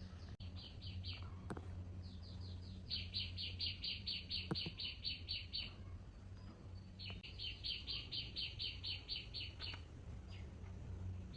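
A bird chirping in quick high runs of about five chirps a second, each run lasting a few seconds, over a low steady hum.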